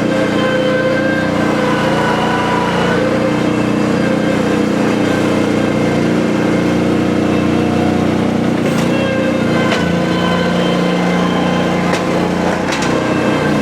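Kubota skid steer's diesel engine running steadily, with a few short clanks in the second half.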